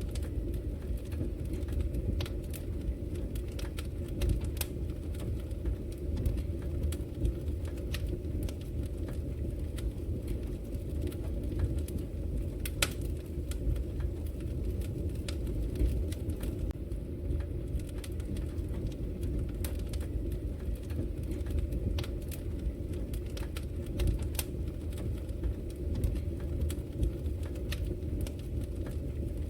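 Wood fire crackling, with sharp irregular pops and snaps over a steady low rumble.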